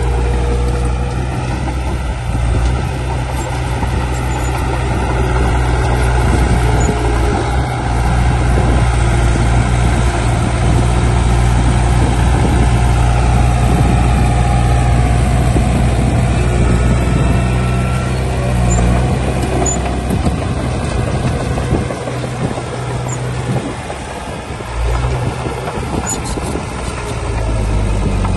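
Heavy diesel engine of earthmoving machinery running under load, a steady low drone that eases off briefly about three-quarters of the way in, then picks up again.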